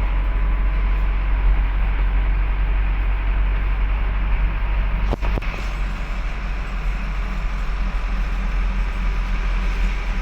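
Truck driving along: a steady, loud rumble of engine and road noise, with a sharp click about halfway through.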